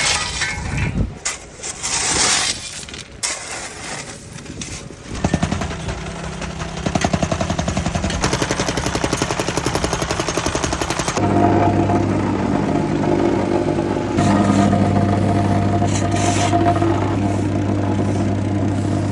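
Irregular scraping and knocking for about five seconds, then a machine engine running steadily with a pulsing beat, its sound growing stronger and deeper about eleven seconds in and holding.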